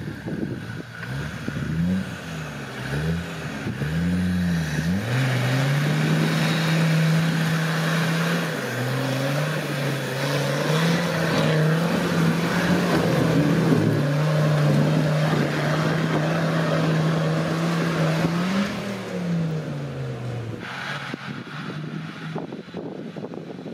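Off-road 4x4 engine revved up and down a few times, then held at steady high revs for about fifteen seconds with brief dips, as if pulling hard under load, before the revs drop back near the end.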